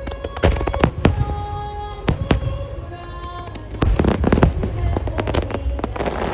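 Aerial firework shells bursting in quick succession, sharp bangs with crackle, densest in a rapid cluster about four seconds in, over music from the show's loudspeakers.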